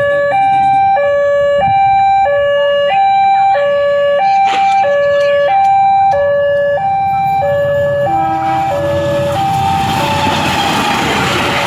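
Railway level-crossing warning alarm sounding, two electronic tones, high and low, alternating about once a second: the signal that a train is coming. About ten seconds in, the approaching train's rumble rises and starts to drown the alarm.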